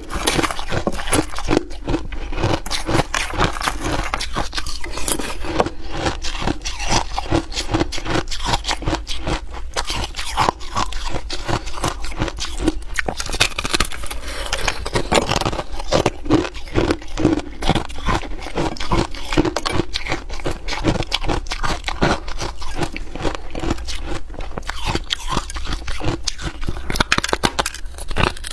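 A person biting and chewing hard ice close to the microphone, a dense, unbroken run of crunching and cracking.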